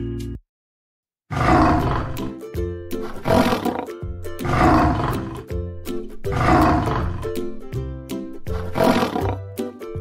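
Lion roaring again and again, about five roars roughly two seconds apart, over background music. The roars begin a little over a second in, after a short silence.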